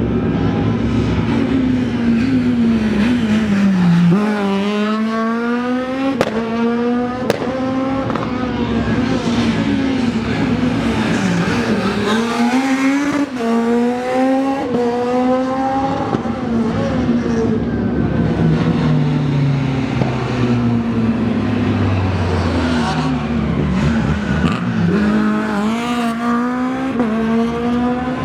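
Rally car engines accelerating hard through the gears, the pitch climbing and dropping at each gear change, with a few sharp pops. Partway through, an engine note falls steadily as a car slows or runs past.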